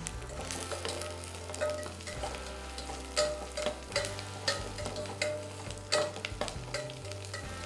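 Chopped onions and green chillies sizzling in hot oil in a stainless steel pot while a perforated steel skimmer ladle stirs them, with repeated sharp clicks of the ladle against the pot.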